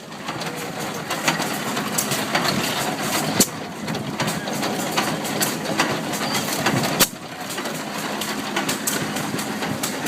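Old stationary hit-and-miss engines running, a mechanical clatter full of sharp clicks and firing knocks, with a few louder knocks.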